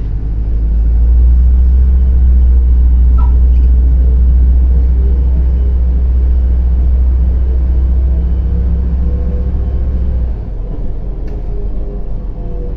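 Interior of a MAZ-105 city bus under way: the engine's deep, steady rumble fills the cabin, then drops sharply about ten seconds in.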